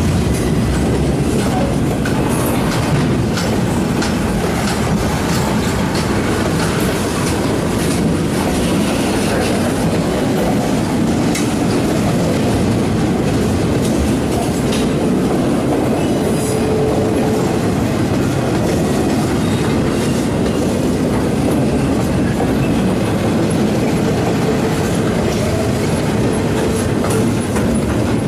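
Steel wheels of a freight train's loaded flatcars rolling past close by: a steady rumble with clickety-clack over the rail joints.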